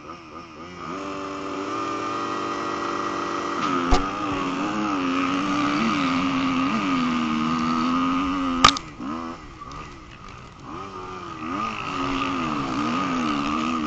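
Motocross motorcycle engine revving, its pitch rising and then rising and falling with the throttle, with a sharp knock about four seconds in and a louder one past the middle, after which the engine drops back briefly before picking up again.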